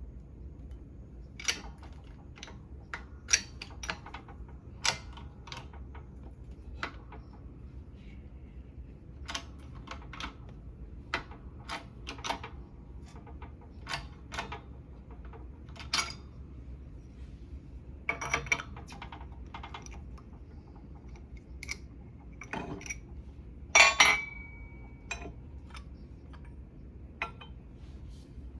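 Irregular metal clinks and taps of hand tools and parts being handled during suspension work, over a steady low hum. The loudest comes near the end: a clink that rings briefly.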